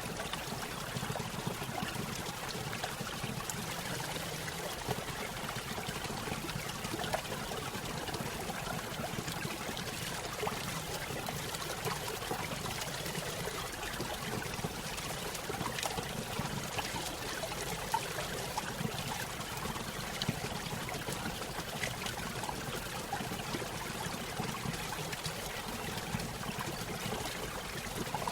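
Small stream running over a little waterfall: steady trickling and pouring water with fine splashes.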